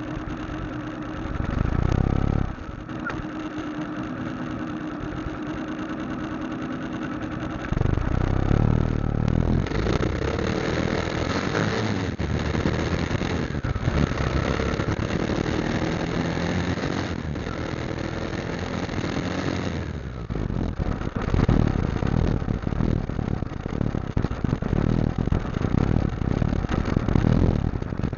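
Motorcycle engine running while riding. It runs steady for the first several seconds, gets louder from about eight seconds in, and turns rougher and more uneven in the last third.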